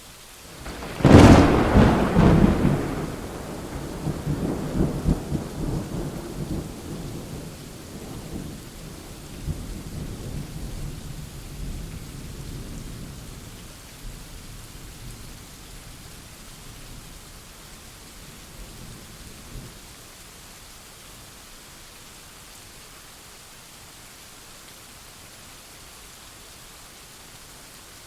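A thunderclap with a sharp crack about a second in, rolling into a long low rumble that fades away over about fifteen seconds, over steady rain.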